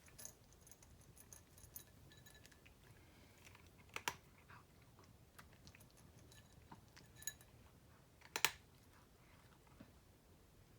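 Cat crunching dry kibble: faint, irregular crunches and clicks of chewing, with two louder crunches about four and eight and a half seconds in.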